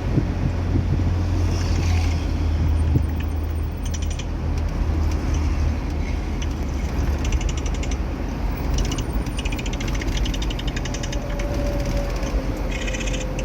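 Car driving along a toll road: a steady low rumble of engine and road noise, with stretches of rapid high-pitched ticking or rattling from about four seconds in and again near the end.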